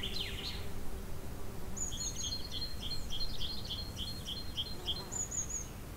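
A small bird singing over a faint steady outdoor hiss: a run of quick, high, repeated chirps, about three or four a second, starting about two seconds in and stopping about five seconds in.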